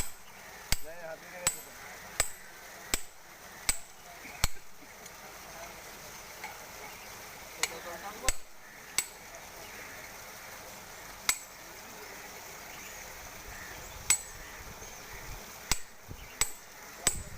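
Hammer blows, each a sharp strike with a brief high ring: a steady run of about one every three-quarters of a second for the first few seconds, then scattered single strikes, picking up again near the end.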